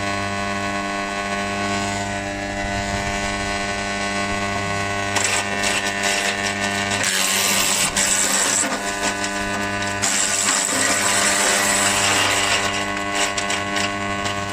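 Electric wood chipper's 2800 W direct-drive motor running with a steady hum. From about five seconds in, an uneven crackling, grinding noise joins it, as when branches are being chipped.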